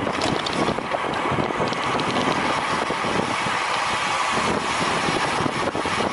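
Steady wind noise rushing over the microphone of a road bike riding at race speed.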